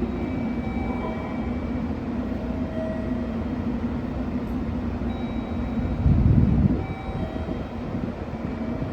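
Train running on the track: a steady rumble with a faint constant hum, and a louder low rumble for under a second about six seconds in.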